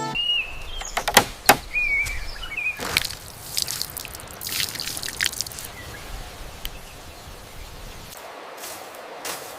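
Outdoor ambience with a few short bird chirps and several sharp knocks or clicks.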